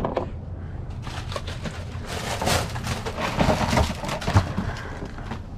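Rustling and scraping as discarded auto parts such as oil filters are rummaged through by hand, with a few small knocks.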